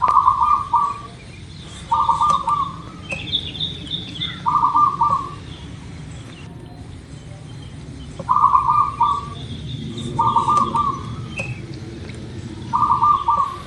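Zebra dove (local perkutut) cooing: six short, stuttering coo phrases of about a second each, repeated every two to four seconds. A few higher chirps from another bird come in about three seconds in.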